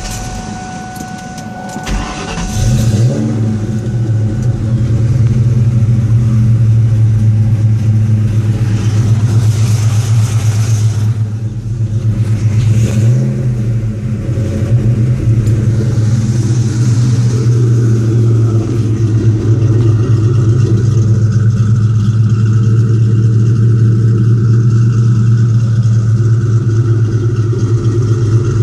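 Modified Mustang GT V8 with custom-grind cams, ported heads, longtube headers, an off-road X-pipe and a cat-back exhaust being started about two seconds in, then idling loudly and steadily through the exhaust.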